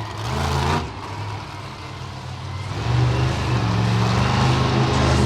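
Monster truck engine revving: a short burst of throttle that drops off after about a second, then a climb back up about three seconds in, held at high revs.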